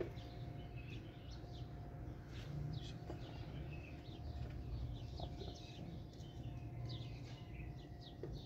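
Small birds chirping faintly and repeatedly in the background, over a low steady hum.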